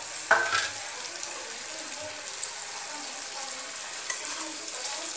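Oil sizzling steadily in a kadai as stuffed gourds fry in it, with a sharp metal clank, ladle against the pan, about a third of a second in and a lighter click near the end.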